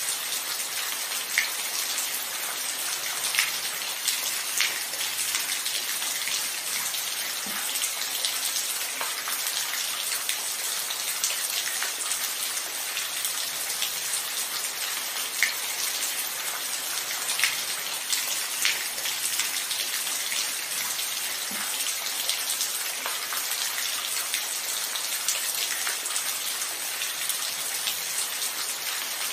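Steady rain falling. A few sharper individual drop splats stand out now and then above the even hiss.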